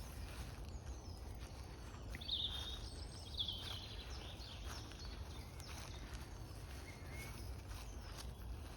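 Woodland birds singing: a few short, bright chirping phrases a couple of seconds in and fainter calls later, over a steady low background rumble.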